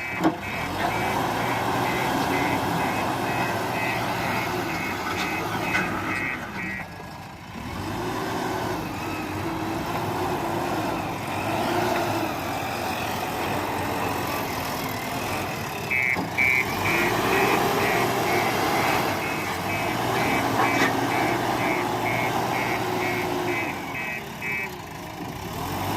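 JCB 4DX backhoe loader's diesel engine working, its revs rising and falling. Its reversing alarm beeps rapidly, about three beeps a second, for several seconds at the start and again in the second half.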